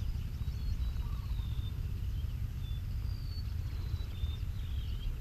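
Small birds chirping faintly, with a scatter of short, thin, high whistles, over a steady low rumble.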